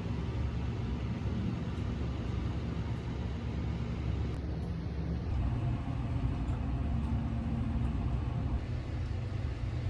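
Steady low rumble of road and engine noise heard inside a moving car's cabin, with a faint hum running through it.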